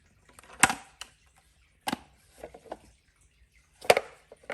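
A few sharp plastic knocks and clicks, three of them loud, from handling the robot vacuum's dustbin.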